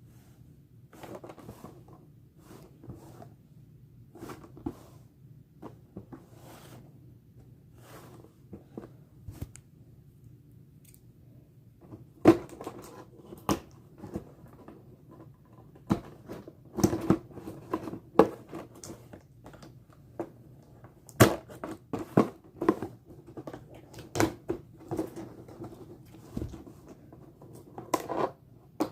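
A boxed collectible figure being unpacked by hand: scattered rustling, tearing and light taps of cardboard and plastic packaging. The handling gets busier and louder about halfway through, with sharp clicks and knocks.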